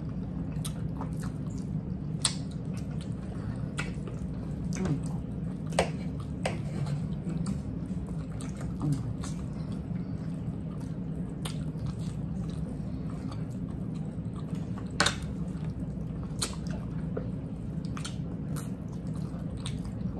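Two people chewing and biting fried chicken, with wet mouth sounds and scattered sharp clicks over a steady low hum.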